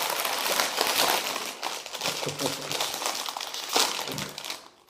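Crinkly snack-chip bag being handled and opened, a dense run of plastic crackling.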